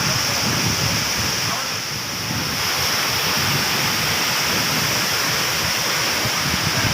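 Waterfall, water rushing and splashing in a steady roar of noise.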